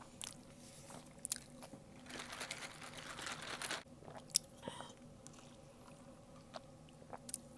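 Close-miked eating of fast food: crunching, biting and chewing with scattered sharp mouth clicks, and a denser crackling crunch from about two seconds in for nearly two seconds.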